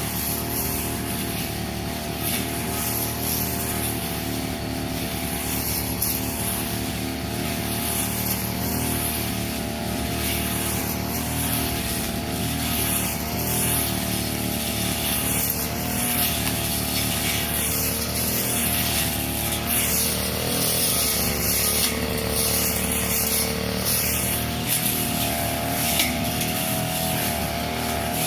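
Brush cutter engine running steadily while cutting grass, its pitch wavering slightly as the cutter is swung, with a hiss of cut grass over it.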